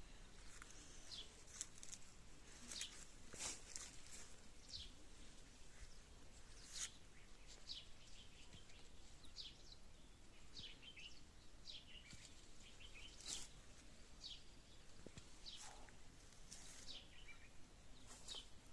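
Birds chirping: short, high chirps that slide downward in pitch, coming irregularly every second or so over a faint outdoor hush.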